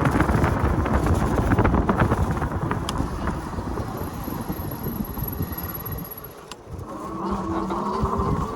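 Wind rumbling on the microphone of a moving e-bike, easing off about two-thirds of the way in. A rising whine joins near the end.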